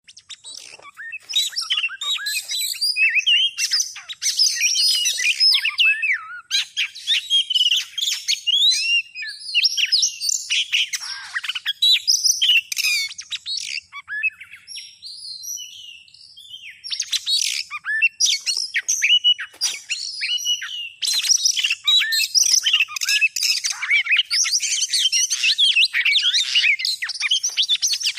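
Oriental magpie-robin (kacer) singing a fast, varied run of whistles and chirps, played as a lure call to draw in wild magpie-robins. The song thins out briefly about halfway through, then picks up again.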